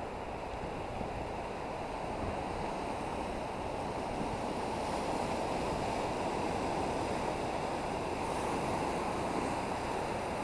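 Ocean surf, a steady wash of waves, swelling slightly in the second half, with some wind on the microphone.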